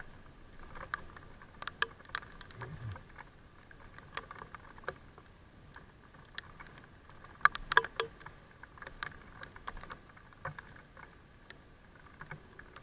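Raindrops ticking irregularly close to the microphone in scattered sharp taps, with a brief cluster of the loudest hits a little past the middle, over a faint steady hum.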